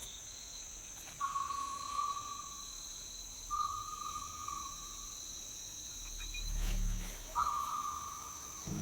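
Nature ambience: insects trill steadily at a high pitch, and three times a drawn-out, even-pitched animal call sounds over them, each lasting about a second. There is a brief low rumble about six and a half seconds in.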